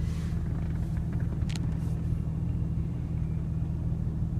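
Porsche Cayman GTS's 3.4-litre flat-six engine idling with a steady low hum.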